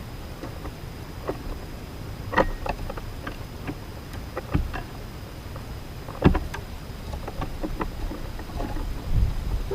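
Scattered taps and knocks at a backyard bird feeder, with the clearest about two and a half, four and a half and six seconds in, over a low rumble.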